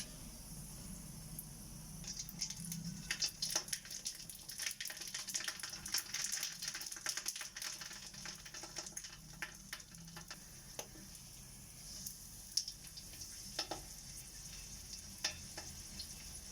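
Dried squid shallow-frying in hot oil: a steady sizzle with frequent sharp crackles and pops, thickest through the middle, as the pieces crisp up.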